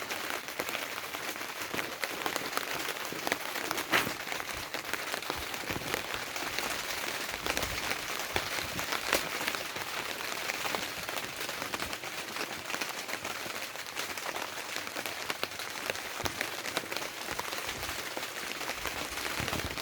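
Rain falling on a tarpaulin: a steady, dense patter of drops, with a few louder single drops, the loudest about four seconds in.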